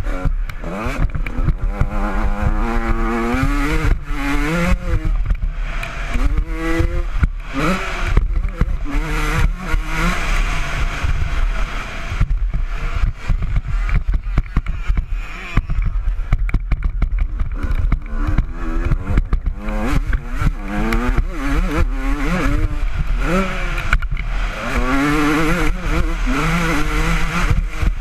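Honda CR125 two-stroke engine ridden hard, its pitch climbing and dropping over and over with throttle and gear changes. Heavy wind rumble and frequent knocks come through the bike-mounted camera's microphone.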